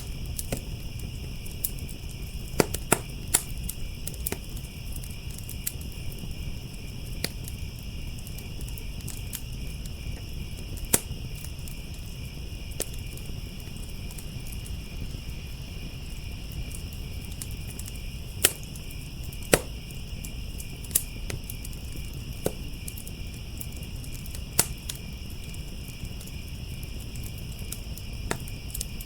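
Firepit wood fire crackling, with scattered sharp pops (the loudest a few seconds in, about eleven seconds in, and in a pair around two-thirds of the way through), over a continuous chorus of crickets trilling and a low steady rumble underneath.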